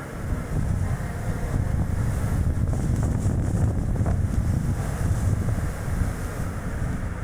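Strong gusty wind buffeting the microphone, a heavy low rumble over the tyre and road noise of a moving Chevrolet Spark light car. The buffeting jumps in loudness about a third of a second in and stays strong.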